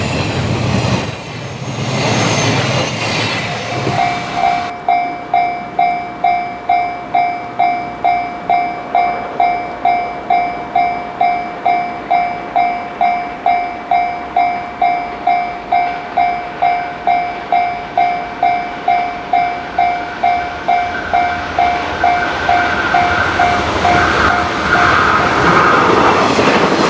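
Railway level-crossing alarm ringing steadily, about two rings a second, while a JR 485-series electric limited express train approaches; the alarm stops near the end as the train passes close by, its run over the rails growing loud. At the start, the last 24-series sleeper coaches of the Twilight Express rumble past.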